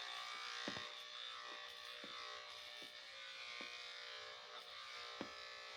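Electric dog grooming clippers running with a steady buzz while cutting a dog's coat, with a few faint clicks scattered through.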